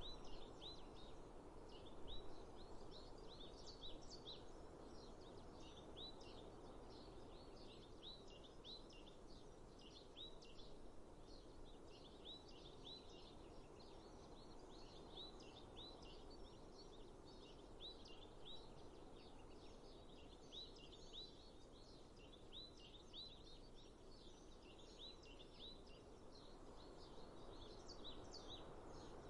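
Birds chirping, with many short, quick calls repeating all through, over a steady faint rush of background noise.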